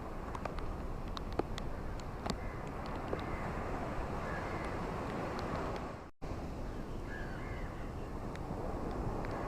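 Ocean waves washing onto a beach: a steady rush of surf that swells a few seconds in, with scattered light clicks. The sound drops out for an instant just after the middle, then the surf carries on.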